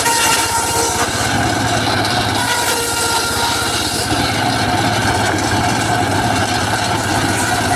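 Large circular saw running steadily while sawing teak wood, with a continuous machine hum and a whine of several steady tones.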